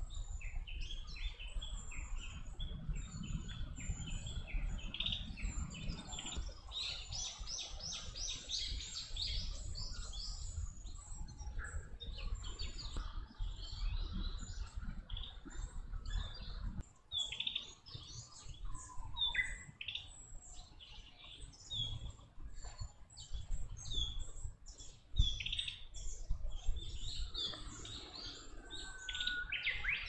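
Birds chirping throughout, many short high calls, with a dense run of rapid chirps about seven to ten seconds in.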